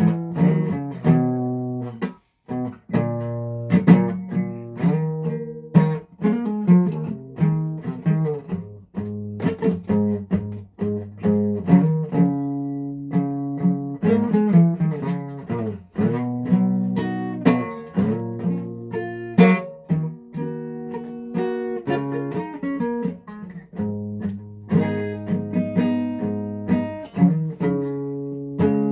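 Acoustic guitar played solo, chords picked and strummed in an unhurried pattern with notes ringing on between strokes.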